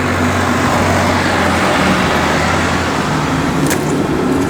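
Kubota M5-091 tractor's four-cylinder turbocharged diesel engine running steadily.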